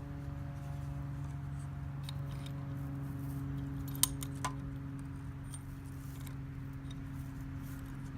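Steady low machine hum throughout, with a sharp metallic click about four seconds in and a lighter one about half a second later.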